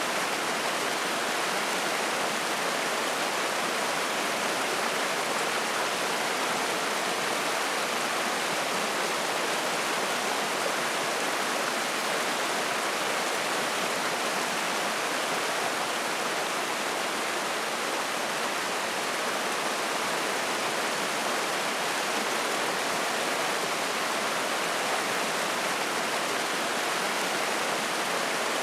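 Spring-fed mountain stream rushing and splashing, a steady, even rush of water.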